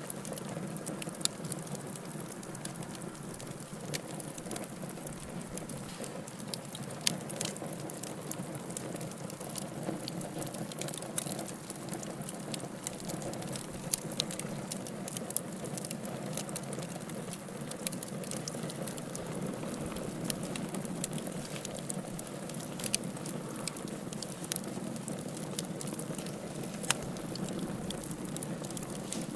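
Wood fire burning in a fireplace: a steady low rumble and hiss of the flames with irregular sharp crackles, now and then a louder pop.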